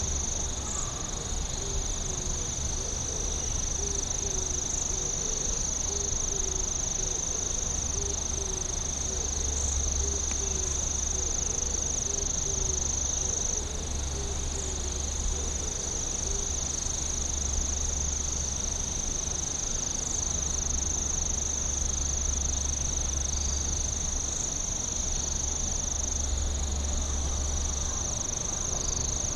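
Night insects, crickets among them, calling in a steady, unbroken high-pitched trill. Through about the first half a lower call repeats a little over once a second.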